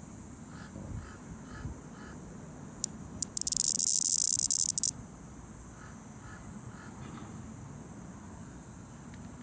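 A dying male cicada's weak mating call: two brief clicks, then one short, loud, high buzzing chirp lasting about a second and a half, starting about three seconds in.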